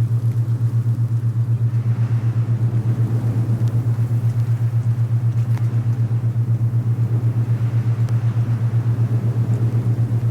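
A low humming tone made of two close pitches beating against each other, throbbing rapidly and evenly: an alpha binaural beat. Under it, wind blows, swelling a couple of seconds in and again near the end.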